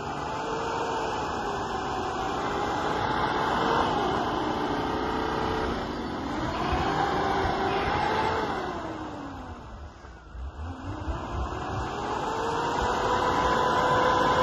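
Off-road 4x4 engine revving hard under load as it forces a front plow blade through deep snow. Its pitch climbs and falls three times, dropping away briefly about ten seconds in before rising again.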